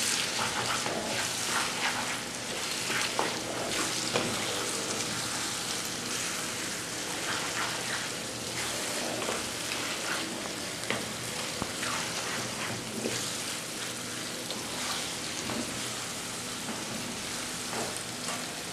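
Browned onions and chicken frying in a pan as Chinese vermicelli is stirred in: a steady sizzle with scattered scrapes and clicks of the stirring utensil against the pan.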